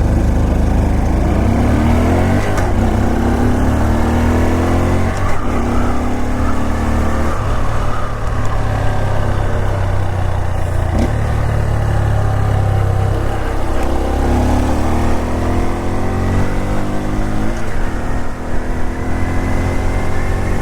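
Honda Super Cub 125's single-cylinder four-stroke engine pulling under way. Its pitch climbs in several sweeps, dropping back between them as it shifts up through the four-speed clutchless gearbox.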